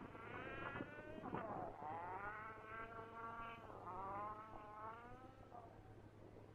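A distant vehicle engine passing with a whining note. It rises in pitch, drops back twice and climbs again, as an engine does shifting up through the gears. A steady low electrical hum runs underneath.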